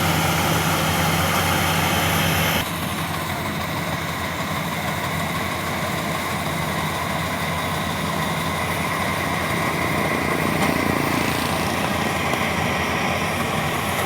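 Combine harvester engine running steadily; its sound drops abruptly about two and a half seconds in and carries on lower.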